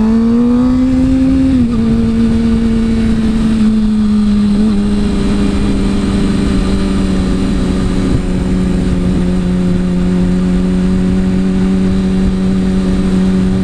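Motorcycle engine heard on board while riding: it revs up for about the first second and a half, drops slightly, then settles into a steady cruising note. A constant low rush of wind runs underneath.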